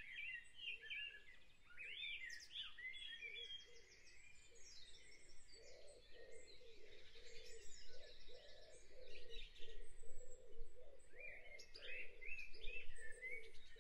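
Birds chirping and trilling, several short high calls overlapping, with a lower call repeating about twice a second from roughly halfway through.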